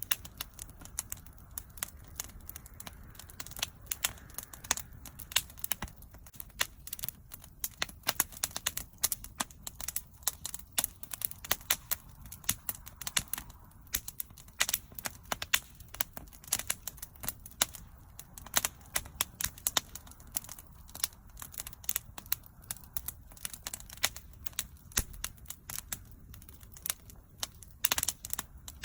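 Wood fire burning, with frequent sharp crackles and pops scattered irregularly over a low, steady rumble of the flames.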